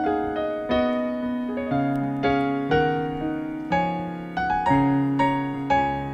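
Keyboard playing a slow instrumental introduction of chords and melody notes, each struck note fading before the next.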